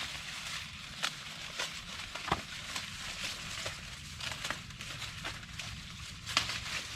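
Dry corn leaves and husks rustling and crackling during hand-picking of corn, with sharp snaps now and then, two of them louder (about two seconds in and near the end).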